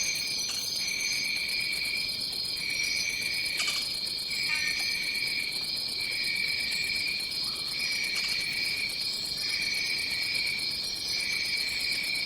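Tropical rainforest insect chorus: a steady high-pitched drone with a second, lower insect trill that pauses briefly every couple of seconds, and faint higher chirps over it.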